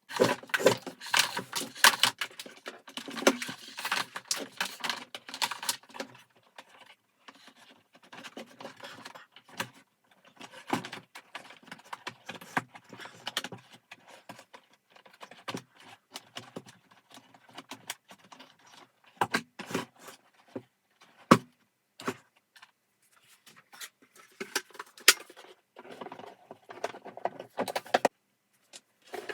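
Irregular clicking, clattering and rattling of small hard parts and tools being handled, with sharp knocks about 21 and 25 seconds in.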